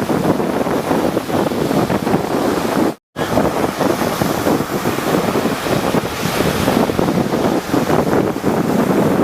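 Rough sea waves surging and breaking in a continuous wash, with wind buffeting the microphone. The sound cuts out completely for a moment about three seconds in, then resumes.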